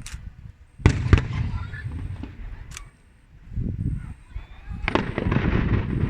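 Aerial fireworks bursting: two sharp bangs about a second in with a rumbling tail, then from about five seconds a dense run of crackling bursts.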